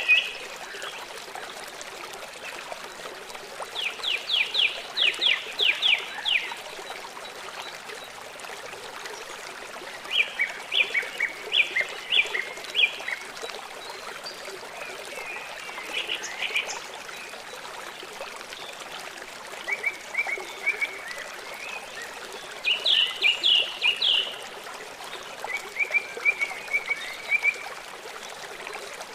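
Small songbirds singing in short bursts of quick repeated high notes, about six phrases several seconds apart, over a steady trickle of running water.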